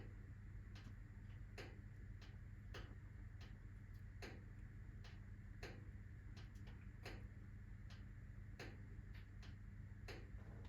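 Wood fire in a fireplace crackling faintly: firewood logs giving off sharp pops at an uneven pace of one or two a second, over a steady low hum.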